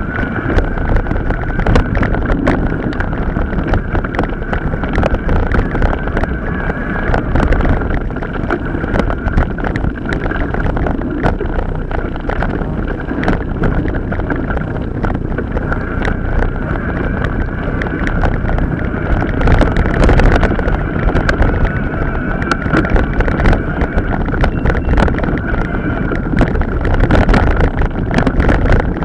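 A mountain bike ridden over rough off-road ground, with wind buffeting the microphone and continual rattles and knocks from the bike and the camera mount, over a steady whine.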